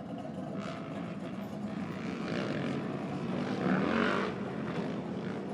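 Motorcycle engines going by in a steady drone, with one passing close about four seconds in, its pitch rising and then falling.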